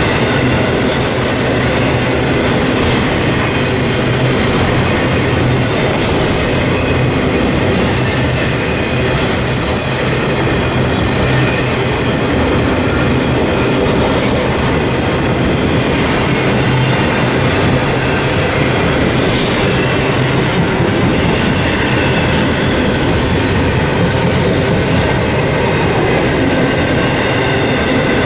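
A freight train rolling past close by, its cars' wheels making a steady rumble and clatter over the rail. Brief high-pitched wheel squeals come in around ten seconds in.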